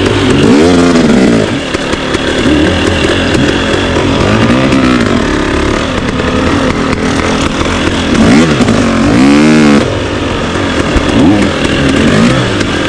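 Off-road motorcycle engine revving, its pitch rising and falling again several times, with the biggest rev swells near the start and about two-thirds of the way in.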